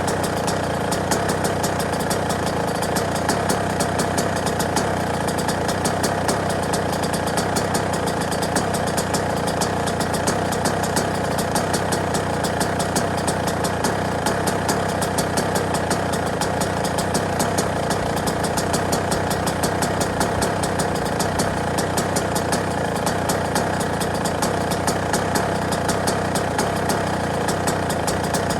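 Yamaha YZ125's single-cylinder two-stroke engine idling steadily, a rapid even stream of firing pulses that does not change.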